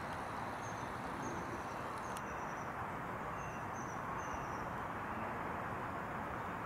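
Steady outdoor background noise, like distant traffic, with a small bird giving about half a dozen short, high chirps over the first four seconds and a single faint click a little after two seconds in.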